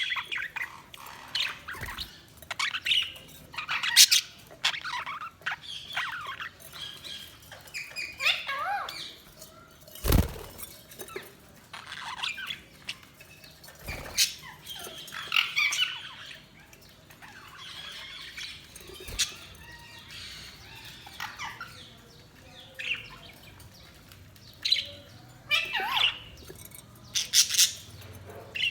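Budgerigars chirping and warbling, short rapid calls scattered throughout with a few sharp clicks, around 10 and 14 seconds in.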